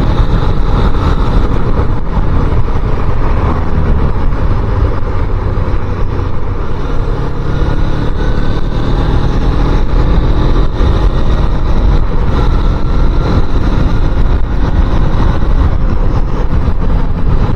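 Motorcycle under way on the road: its engine runs with a heavy, steady low rumble of wind and road noise. The engine note rises faintly as it picks up speed about twelve seconds in.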